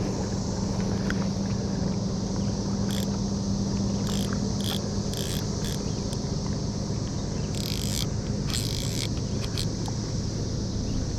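Steady, high-pitched droning chorus of cicadas over a low steady hum, with scattered short clicks and scrapes through the middle.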